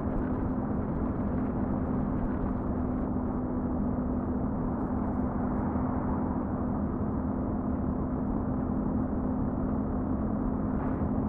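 A truck running steadily: an even engine hum at one unchanging pitch over a constant rushing noise.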